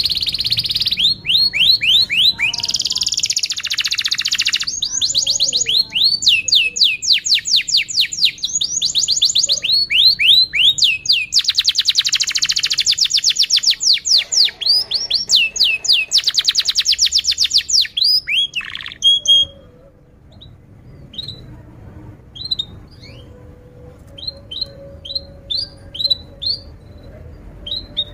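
Domestic canary singing a long, loud song of rapid rolling trills, fast runs of repeated notes one after another. After about 19 seconds the song breaks off to sparse, quieter single chirps.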